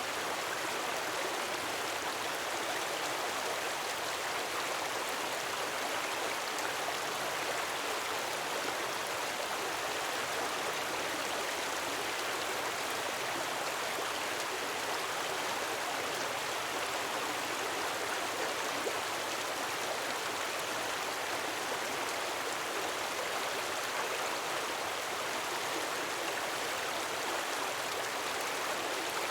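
Gentle waterfall: a steady, even rush of falling water.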